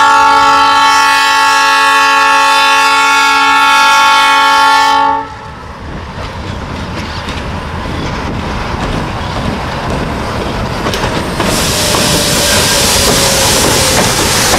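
ALCo RSD16 diesel locomotive's multi-tone air horn blowing one long, steady chord that cuts off abruptly about five seconds in, a warning for the level crossing. The locomotive's engine and the train's wheels on the rails then grow steadily louder, much louder as it passes close near the end.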